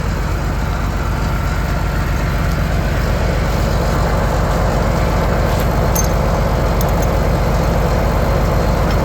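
Truck engine running steadily, slowly getting a little louder.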